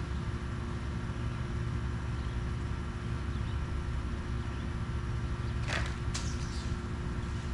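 Engine idling steadily, with a short run of sharp clicks and rattles about six seconds in.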